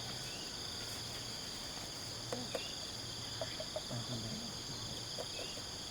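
A steady chorus of insects, a continuous high-pitched trilling made of several unbroken tones, with a few faint low voices and small knocks mixed in.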